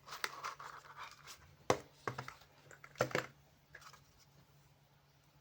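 Handling noise from a portable handheld spot welder: scratchy rubbing, then two sharp clicks about a second and a half apart with a few lighter clicks, over a faint steady hum.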